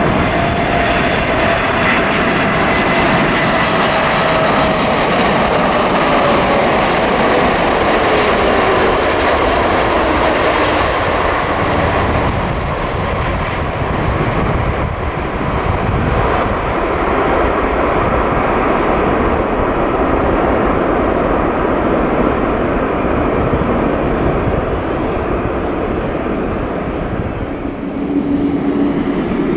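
A Boeing 747-8F freighter's four GEnx turbofan engines passing close by as it comes in to land: a loud jet rumble with a whine that falls in pitch over the first ten seconds as the aircraft goes past, then a steady loud roar.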